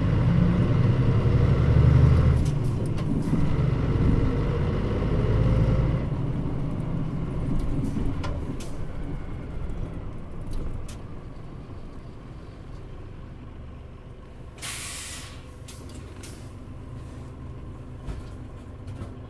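Interior running sound of a Mitsubishi Fuso Aero Star route bus (KL-MP35JM): the diesel engine pulling strongly, then easing off as the bus slows and settles to a lower, steadier running noise. A short hiss of released air from the air brakes comes about fifteen seconds in.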